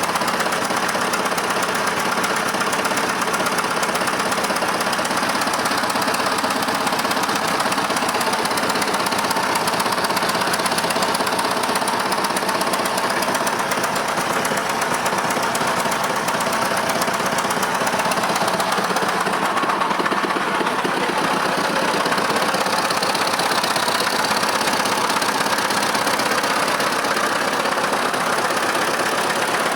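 Ford 5000 tractor's diesel engine running steadily. The tractor smokes and is hard to start.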